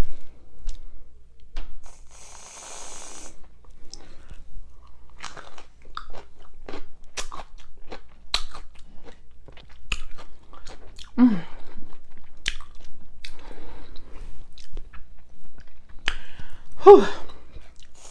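A short hiss of an aerosol whipped-cream can spraying onto a small pickle about two seconds in, then crisp crunching bites and chewing of the sour pickle. Two brief vocal sounds with falling pitch from the eater come in the middle and near the end, the later one the loudest.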